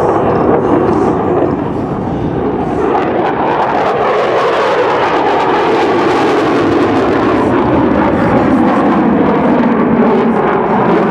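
F-16 Fighting Falcon's General Electric F110 turbofan flying a demonstration pass: loud, continuous jet noise whose pitch shifts slowly, easing slightly about two seconds in.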